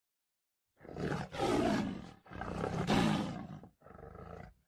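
A car engine revving hard in four bursts with short breaks between them.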